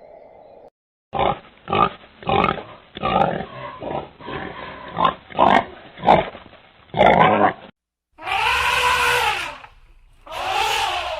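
An animal grunting, about ten short grunts over some six seconds. After a brief break come two long calls that rise and fall in pitch.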